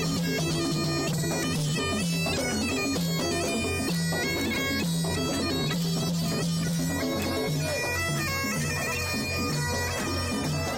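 Bagpipes playing a tune over their steady drone, with a drum keeping a regular beat underneath.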